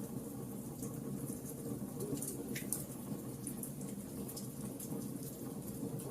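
Wood bonfire crackling: a steady low rumble of burning, with scattered sharp pops and snaps.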